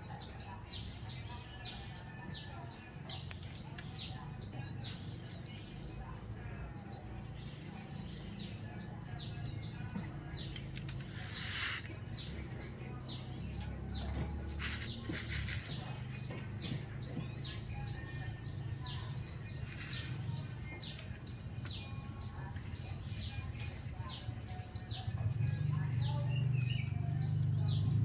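A small bird chirping over and over in quick, high, falling cheeps, about two to three a second, with a few sharp clicks in the middle.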